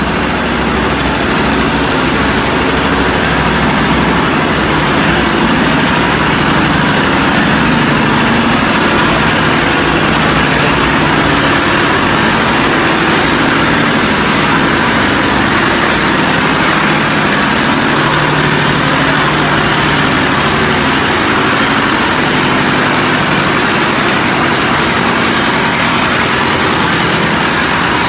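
Antique pulling tractor's engine running loud and steady, rising a little in level over the first few seconds.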